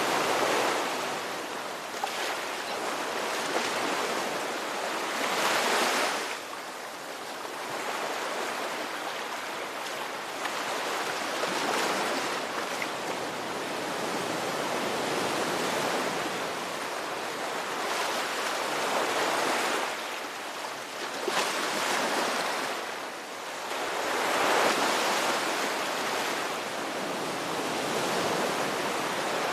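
Ocean waves breaking and washing ashore, a continuous rush of surf that swells and eases with each wave every few seconds.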